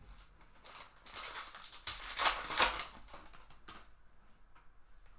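Trading cards and their packaging being handled: a rustle and crinkle of card stock that starts about a second in and lasts about two seconds, followed by a few light clicks.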